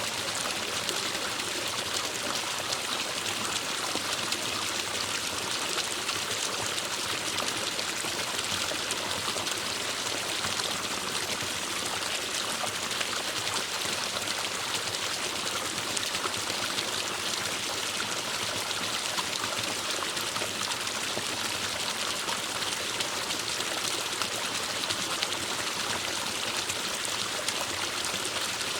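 Forest stream flowing and trickling over rocks: a steady, even rush of water with no change.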